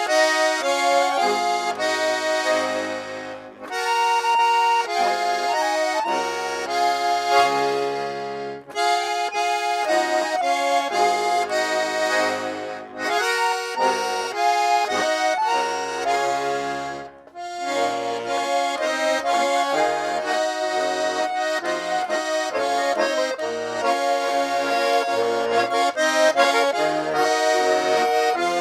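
Russian garmon (button accordion) playing a Russian folk polka: melody over a bass-and-chord accompaniment, with brief breaks between phrases.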